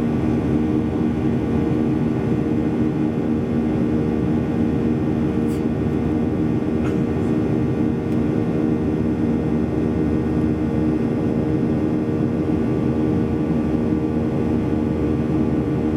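Steady cabin noise inside a Boeing 737-800 in flight: the CFM56 jet engines and airflow make a constant drone with a low hum of several steady tones. A few faint clicks come near the middle.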